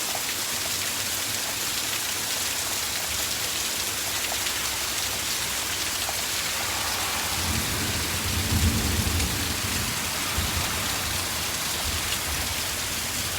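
Steady rain shower, with drops striking a surface. Around the middle a low roll of thunder swells and fades over about three seconds.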